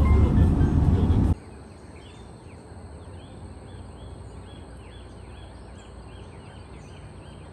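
Background music that cuts off about a second in, leaving quiet outdoor ambience with a bird calling over and over in short falling chirps, about three a second.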